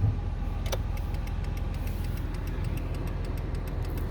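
Car engine and road noise heard from inside the cabin: a steady low rumble, with faint, evenly spaced clicks.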